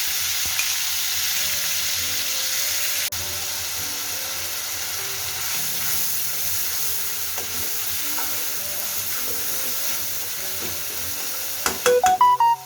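Onion paste frying in hot oil in a pan, a steady sizzling hiss. A few sharp knocks come near the end.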